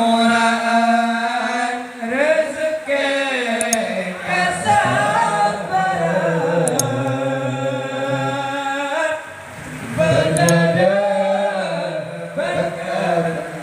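A man singing a sholawat, an Islamic devotional song, in the Madurese style, unaccompanied: long held notes with ornamented, bending melismas, broken by a couple of short breaths.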